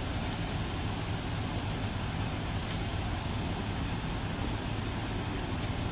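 Steady road and engine noise of a car driving, low and even throughout, with a faint click near the end.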